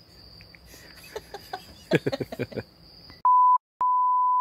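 A steady high insect trill, such as crickets, with a few quiet spoken syllables. About three seconds in, a loud pure bleep tone cuts in suddenly, stops for a moment, then comes back and holds steady.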